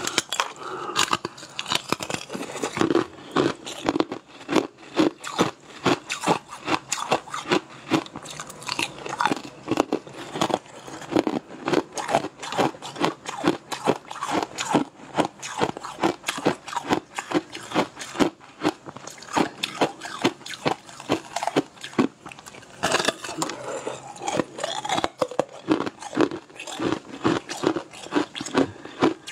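Close-miked crunching and chewing of a brittle, translucent purple food sheet: crisp cracking bites and chews at about three a second.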